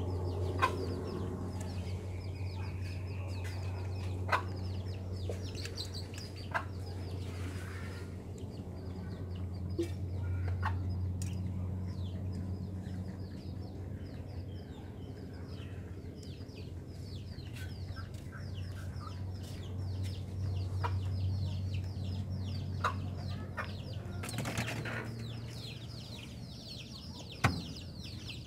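Birds chirping in quick, high, falling calls that come thickest near the end, over a steady low hum, with a few sharp clicks.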